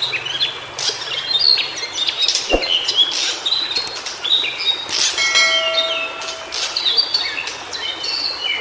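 White-browed shortwing song: a busy run of short, quick high chirping notes, continuing throughout. About five seconds in, a steady humming tone with overtones sounds for about a second and a half, and there is a sharp click about two and a half seconds in.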